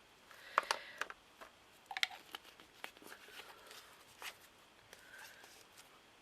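Light handling noises of craft materials: a scattered series of small clicks and taps with faint rustling between them.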